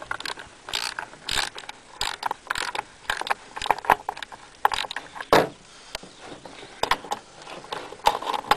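Ratchet wrench with a 3/4-inch socket clicking in a series of short, irregular strokes as it snugs down the guide-bar nuts on a chainsaw.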